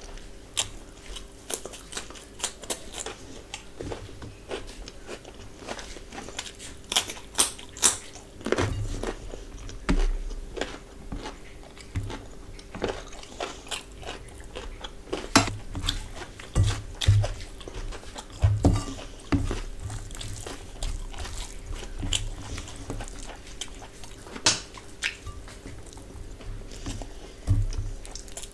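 Close-miked eating by hand: chewing and biting mouthfuls of biryani, with many irregular sharp mouth clicks, and fingers working the rice on a steel plate.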